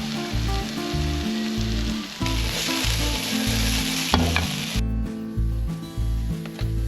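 Ribeye steaks sizzling on a grill, the sizzle cutting off about five seconds in. A steady bass beat of music runs underneath.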